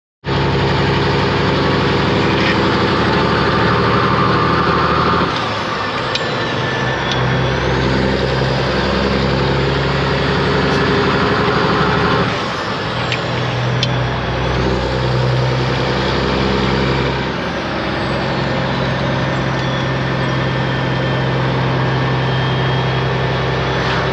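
Heavy truck's diesel engine running under way, with a steady low engine note. The note and the level drop twice, about 5 and 12 seconds in, and then pick up again.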